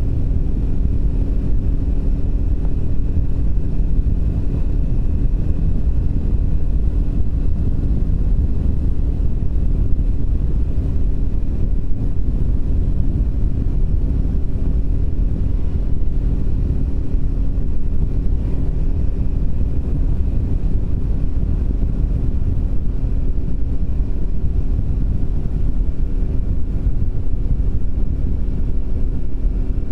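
Triumph Speed 400's single-cylinder engine running at a steady cruise, under a low rumble of wind and road noise.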